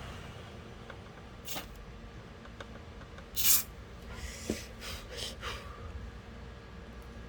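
WD-40 aerosol can spraying in a few short hisses, the longest and loudest about halfway through, with smaller puffs soon after.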